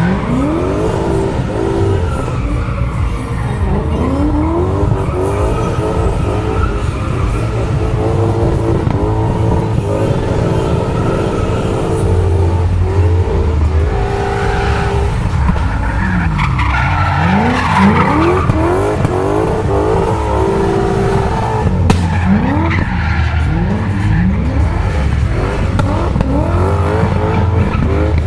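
V8-swapped BMW E46 drifting, its engine revving up and down over and over, with tyres squealing and skidding. For stretches the revs hold at a steady pitch.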